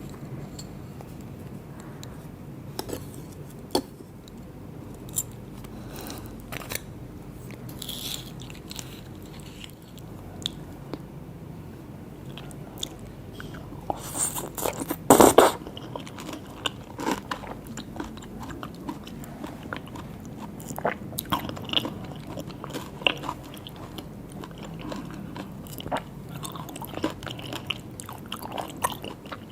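Close-miked eating sounds: a person biting and chewing seafood, with wet smacks and small crunches throughout and a louder burst of crackling about halfway.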